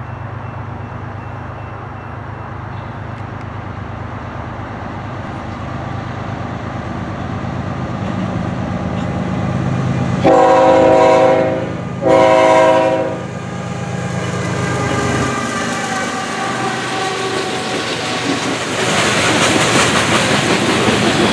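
GE ES44AC diesel locomotive approaching with its engine running and growing louder, then sounding its horn in two blasts, one right after the other, about halfway through, the second a little shorter. Near the end the coal hopper cars roll by with a steady rolling noise and wheel clatter.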